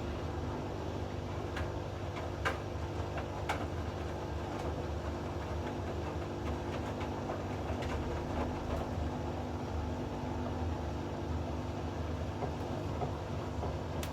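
Hoover inverter washing machine running, its drum turning with a steady motor hum and low rumble. A few sharp clicks or knocks come from the tumbling load in the first few seconds.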